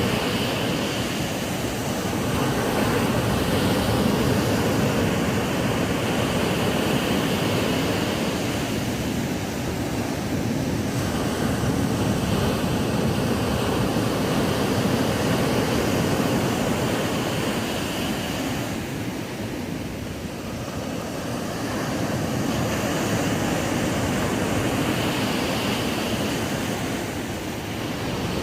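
Ocean waves breaking and washing up a sandy beach: a steady surf noise that swells and eases slowly, with a quieter lull a little past the middle.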